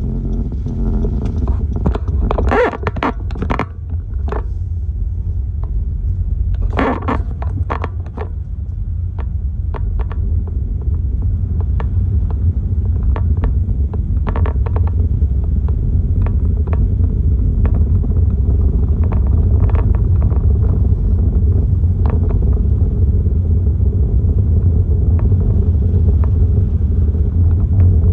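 Hurricane-force wind buffeting the microphone as a heavy, steady low rumble that builds somewhat after the first several seconds. Scattered sharp rattles and clatters come through it, most densely a few seconds in and again about seven seconds in.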